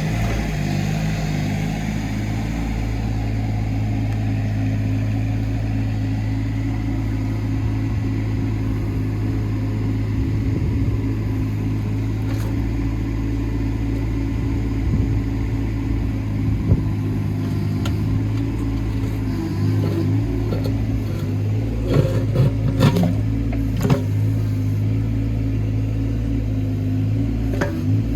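Hitachi ZX18 mini excavator's diesel engine running steadily while digging, with a few sharp knocks and clatters near the end.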